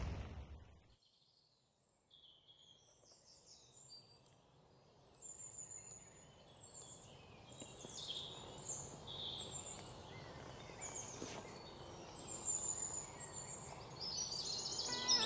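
Faint chirping of small wild birds, short high calls coming and going, over a light outdoor hiss. Before that there are a few seconds of near silence as the intro music dies away.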